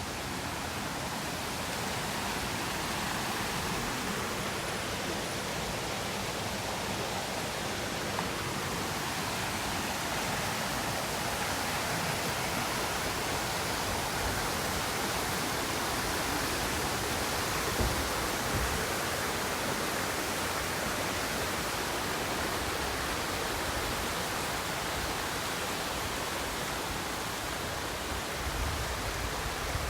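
Waterfall rushing steadily, the constant roar of Minoh Falls' water. There are a couple of brief low bumps, about halfway through and near the end.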